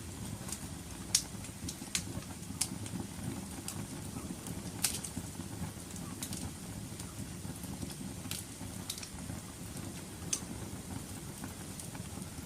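Wood fire burning in a fireplace: a steady low roar of flames with scattered sharp crackles and pops, the loudest about a second in and near five seconds in.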